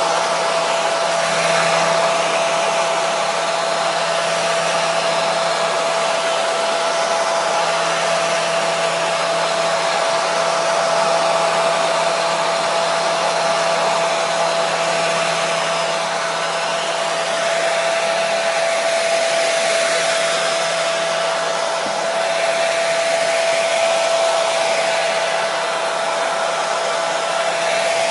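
Handheld hair dryer running steadily on one setting, an even rush of air with a steady whine from its motor and fan. Played continuously as white noise to soothe a colicky baby to sleep.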